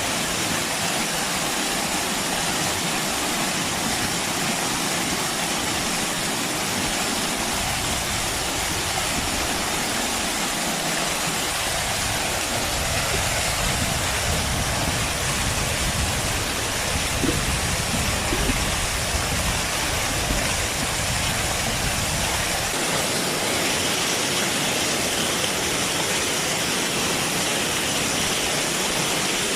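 Waterfall: a steady rush of falling water. A low rumble joins it about a third of the way in and stops abruptly about three quarters of the way through.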